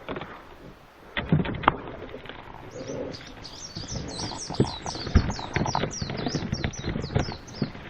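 A small bird singing a long, fast run of high, quick chirping notes, with a few sharp knocks heard early on and once more partway through.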